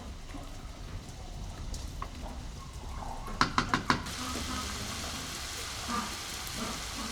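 Food frying in a hot pan. About three and a half seconds in come five quick knocks, and then a steady sizzle starts and carries on.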